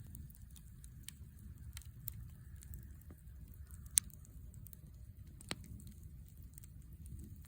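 Wood fire crackling, with scattered small pops and a sharper snap about four seconds in, over a low steady rumble.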